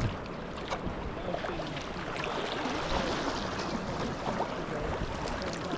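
Sea water splashing and lapping around a sea kayak as it is paddled, with scattered small splashes over a steady wash of water noise.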